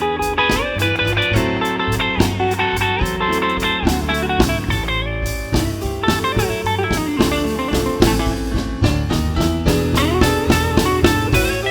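Live blues band playing an instrumental break: an electric guitar leads with bent notes over bass, drums with a steady cymbal beat, and piano.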